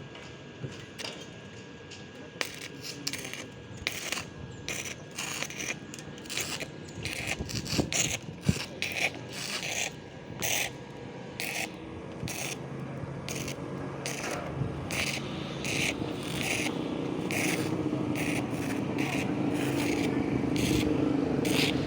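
Repeated short scraping strokes, roughly one to two a second and uneven in spacing, typical of hand work on metal such as brushing or filing. In the second half a low motor hum comes in and grows louder.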